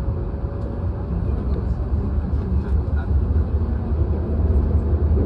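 H5 series Shinkansen train heard from inside the passenger cabin, a steady deep rumble with a faint whine, growing slowly louder as the train gathers speed out of the station.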